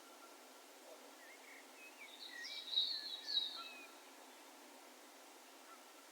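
A distant bird singing one short phrase a second or so in: a few whistled, gliding notes, then a brighter, louder twittering burst, over a steady background hiss.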